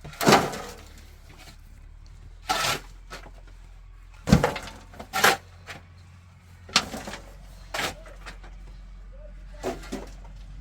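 A series of irregular knocks and clattering thumps, about seven in ten seconds, over a low steady hum.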